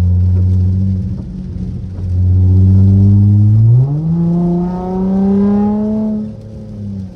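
Straight-piped Dodge SXT exhaust heard from the cabin: a steady low drone, then about four seconds in the note jumps up and climbs as the car accelerates, dropping away near the end as the throttle lifts.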